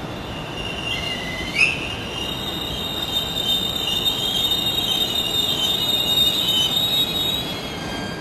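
E217 series electric train moving off from the platform. A high whine glides upward in pitch about a second and a half in. Steady high-pitched squeals and whines then build in loudness and fade near the end, over a low rolling rumble.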